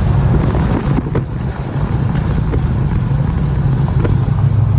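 A vehicle engine running steadily, a low, even drone.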